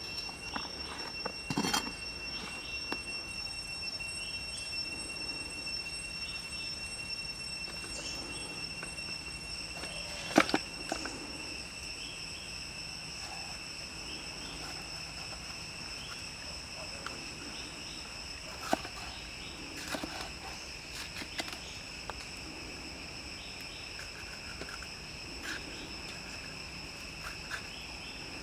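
Steady chorus of jungle insects, a continuous high-pitched drone held at a few fixed pitches. Scattered clicks and knocks sound over it, the sharpest about ten seconds in and another a little before twenty seconds.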